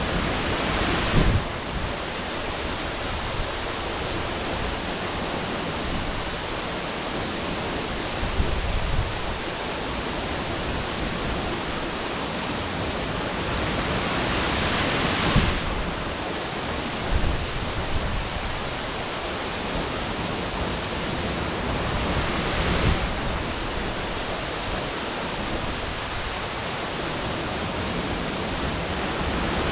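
Waterfall rushing: a 15-metre fall of water pounding into its plunge pool, a steady dense rushing that swells louder a few times.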